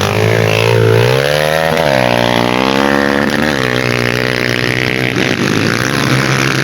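Dirt bike engine revving, its pitch rising and falling several times.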